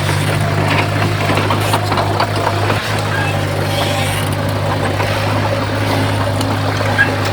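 Heavy diesel engine of earthmoving equipment running steadily, a constant low drone with light scattered clanks and rattles.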